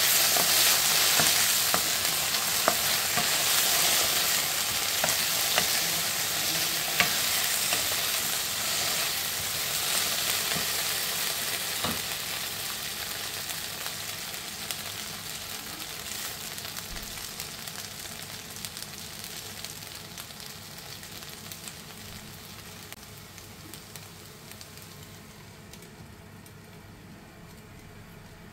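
Potato chunks sizzling in hot oil in a non-stick wok, with sharp clicks and scrapes from a wooden spatula stirring them in the first half. The sizzle fades steadily over the second half to a faint hiss once the glass lid is on for steaming.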